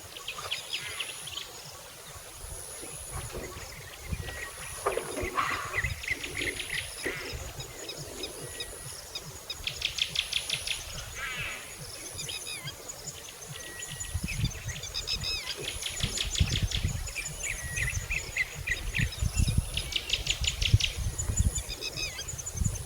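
Birds calling outdoors in fast chattering trills, over a high insect buzz that repeats about once a second. A low rumble comes in during the second half.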